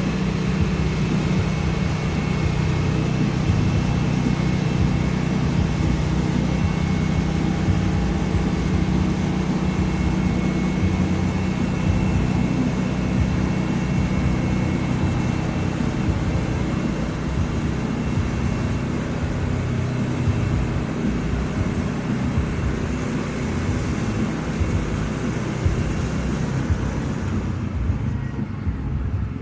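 Sawmill engine running steadily with a constant low hum, and a high-pitched whine that fades out near the end.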